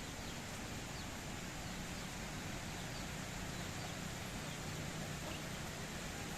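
Steady rural outdoor background noise with faint, brief bird chirps scattered through it.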